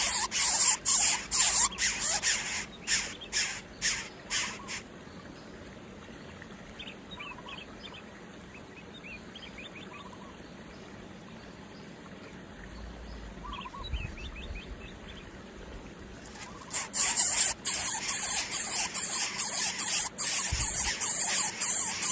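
A small animal squeaking shrilly and rapidly, about three or four sharp squeaks a second, in two bouts with a quieter stretch of faint high chirps between.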